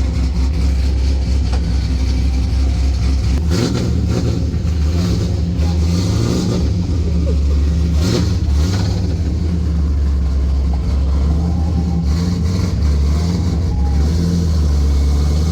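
Cammed 4.8-litre LS V8 with long-tube headers in an E46 drift car, heard from inside the car, running at low speed with a steady loud exhaust rumble. The engine note changes about three and a half seconds in, and there are a couple of sharper bursts of throttle around four and eight seconds in.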